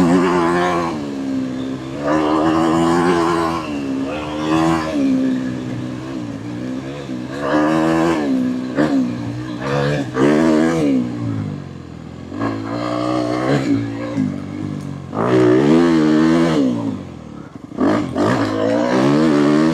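Honda dirt bike engine under hard riding, its pitch climbing and falling again and again as the throttle is opened and closed and the gears change. Loudness dips briefly near the end.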